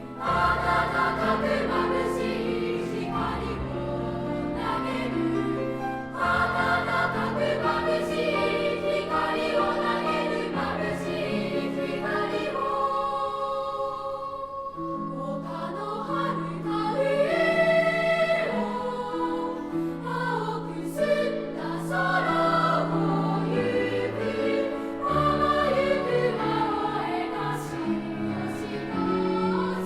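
Children's choir singing a song in three-part harmony, the voices moving through sustained notes and phrases.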